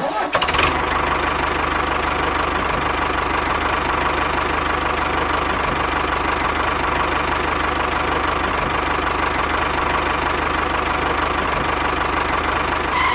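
A small motor or engine running steadily at one speed, with a constant hum and fast, even knocking pulses. It starts just after the beginning and cuts off suddenly near the end.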